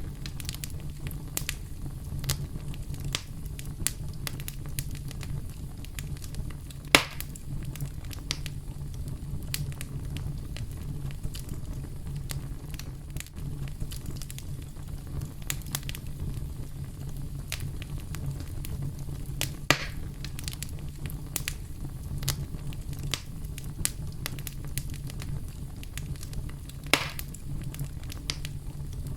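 Campfire crackling steadily over a low rumble of the flames, with frequent small snaps and three louder pops spread through.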